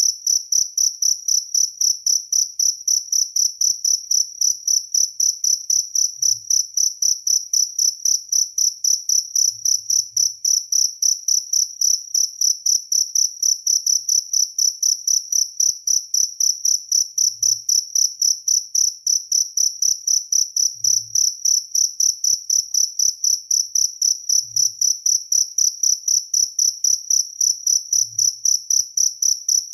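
Jaliteng cricket chirping continuously: an even, high-pitched chirp repeated about four to five times a second without pause.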